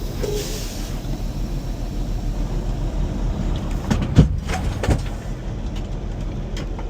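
Semi truck's diesel engine idling with a steady low rumble; two short knocks are heard about four and five seconds in.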